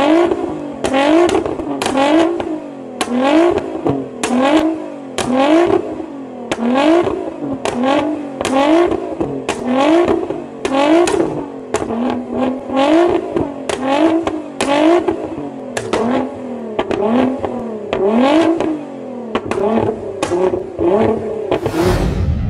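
Nissan GT-R's twin-turbo V6 revved up and down over and over in a steady rhythm, about once a second, with sharp exhaust pops at the peaks. A low whoosh comes near the end.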